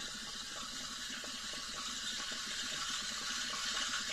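Steam wand of a Swann retro espresso machine hissing steadily as it steams milk, with a faint irregular crackle underneath.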